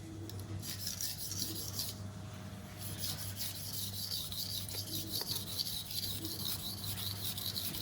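Stainless steel chef knife blade stroked back and forth across a coarse Naniwa 320 Pro waterstone: a quiet, rhythmic scraping rasp. It pauses briefly about two seconds in, then keeps going. The blade is grinding its edge to raise a burr and remove chips and rolls.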